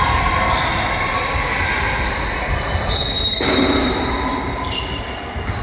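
Basketball game sounds echoing in a gym hall: the ball bouncing and players moving on the court under a steady background of crowd noise. A short high-pitched tone is heard about three seconds in, followed by a sharp hit.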